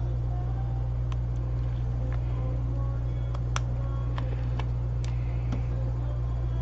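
Steady low electrical hum of workbench equipment, with a handful of light, sharp clicks and taps scattered through it, the clearest about three and a half seconds in.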